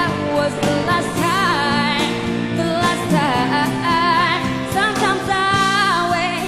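Female pop singer singing wavering, ornamented runs with vibrato over a full pop band accompaniment.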